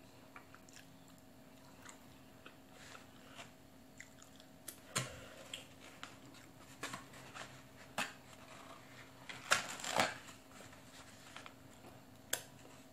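Close-up mouth sounds of someone eating fries and a Reuben sandwich: chewing and biting with scattered short smacks and crunches. The loudest come about five, eight and ten seconds in, with one more near the end.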